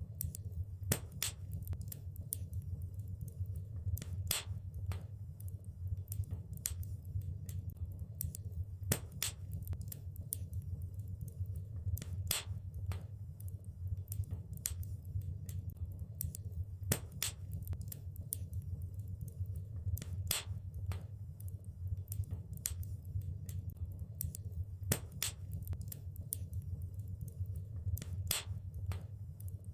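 Fireplace fire crackling: irregular sharp snaps and pops, a few louder ones every few seconds, over a steady low rumble of the burning fire.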